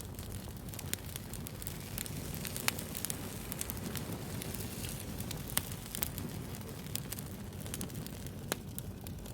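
Wood fire burning with a steady low rumble and irregular sharp crackles and pops, a couple of them louder than the rest.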